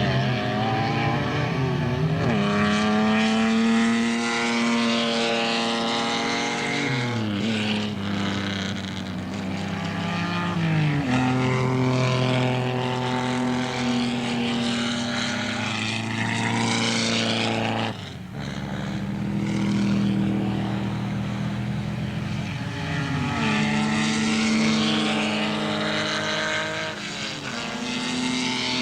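Racing sports car engine run hard, its note climbing and then dropping at each gear change, several times over, with a brief dip about two-thirds of the way through.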